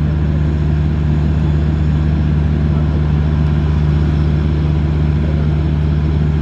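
Diesel locomotive engine running at full power: a loud, steady low drone that holds unchanged.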